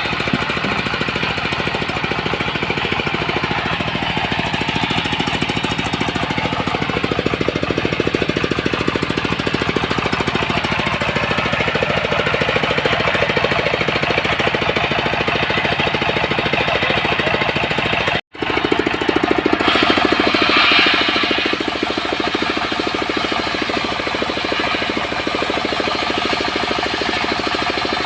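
Sawmill engine running steadily with a rapid, even firing beat; its pitch sinks a few seconds in. The sound drops out for an instant about two-thirds of the way through.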